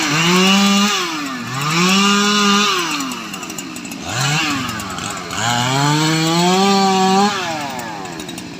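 STIHL MS 881 two-stroke chainsaw revved up hard several times. Each time the engine climbs to full speed, holds about a second, then drops back toward idle. The longest rev is near the end, after a brief blip.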